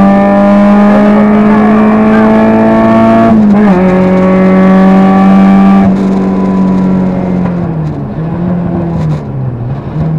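Rally car engine heard from inside the cabin at full throttle, its note climbing through the revs. There is a quick upshift about a third of the way in. About six seconds in the driver lifts off, and the note drops and wavers as the car slows.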